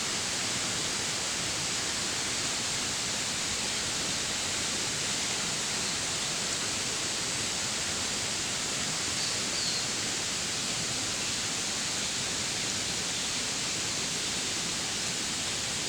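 Steady rushing of a waterfall, an even wash of falling water with no change in level.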